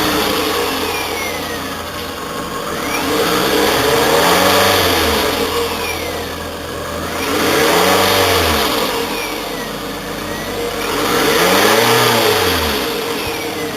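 2008 Toyota Camry engine idling and revved three times, each rev rising and falling back to idle over about two seconds.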